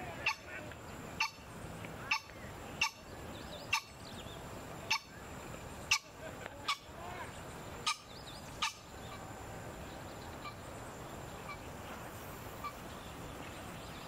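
Wild birds calling: a series of sharp, harsh notes about once a second for the first nine seconds or so, mixed with a few pitched calls, then only faint scattered notes.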